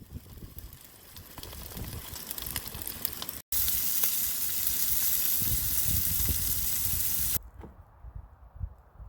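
Food sizzling and crackling in a hot pan, with a louder, steadier sizzle after a cut about three and a half seconds in that stops abruptly near the end. Wind rumbles on the microphone underneath.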